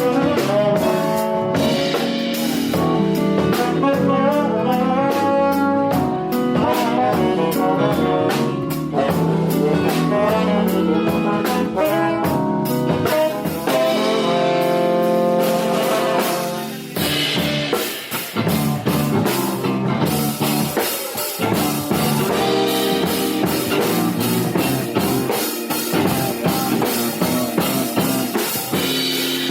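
Live jazz band playing: saxophone and brass melody lines over bass, piano and drum kit. From about seventeen seconds in, the horn lines thin out and the drums and cymbals come forward.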